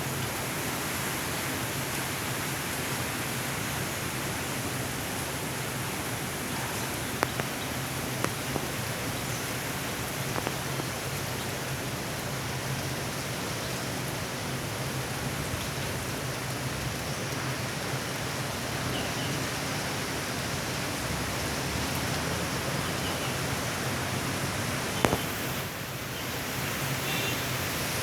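Heavy monsoon rain falling steadily, a constant hiss, with a few sharp taps of drops striking something scattered through it.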